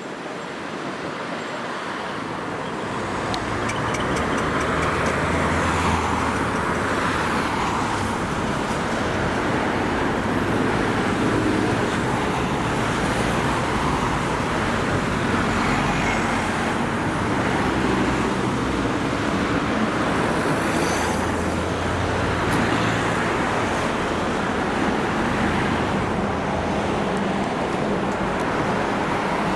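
Road traffic noise: vehicles driving past, growing louder about three seconds in and then holding steady.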